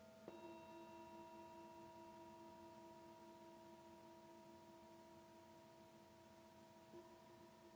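Singing bowls ringing softly. A bowl is struck lightly just after the start, and its layered tones hang on with a slow pulsing over the still-sounding tones of earlier strikes; another light strike comes near the end.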